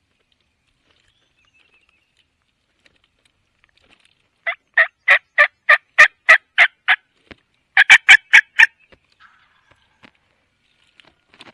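Turkey yelping: a run of about nine loud, evenly spaced notes, then after a short pause a quicker run of about five.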